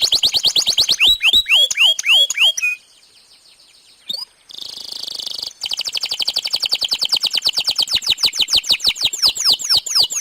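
Domestic canary singing: fast trills of repeated down-sweeping whistled notes. The song breaks off for about a second and a half nearly three seconds in, then resumes with a short buzzy phrase and a long rapid trill.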